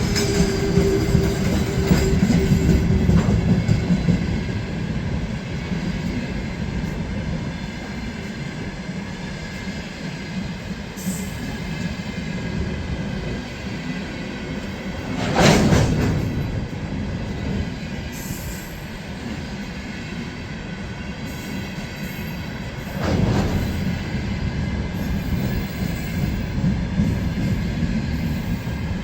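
Train running on the rails with a steady rumble of wheels and cars. There are two short, louder clattering bursts, one about halfway through and one near the end.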